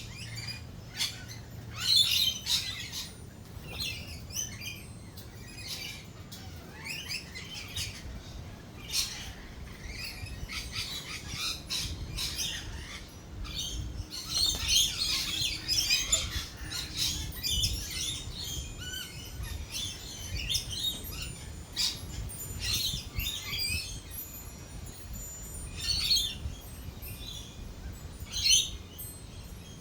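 Many lorikeets calling at once in overlapping shrill chirps and chatter, over a low rumble that is stronger midway through.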